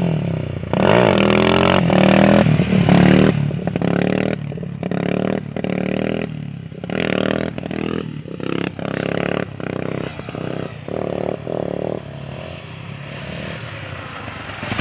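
Motorcycle engine revving hard for the first few seconds, then the throttle is opened and shut again and again in short surges, easing to quieter running near the end.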